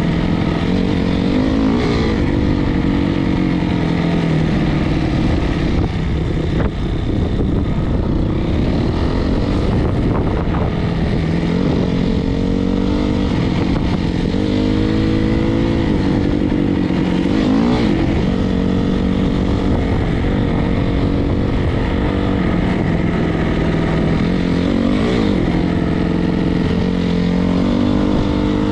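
Single-cylinder four-stroke dirt bike engine being ridden, its note climbing and dropping over and over with the throttle and gear changes.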